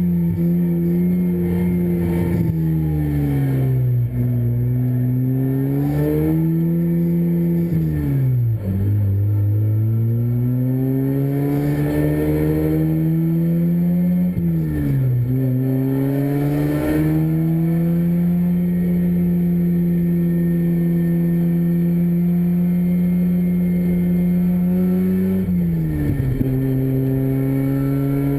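Freshly rebuilt two-rotor Mazda Renesis rotary engine in a racing RX7 running at part throttle during break-in, held below 6,500 rpm. Its pitch climbs and falls, drops sharply about a third of the way in, again around the middle and once more near the end, and holds steady for several seconds before the last drop.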